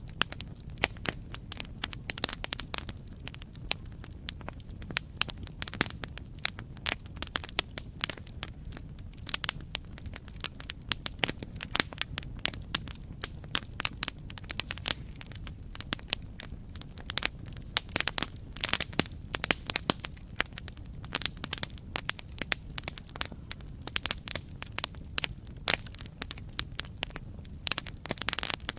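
Campfire crackling: dense, irregular snaps and pops over a low, steady rumble.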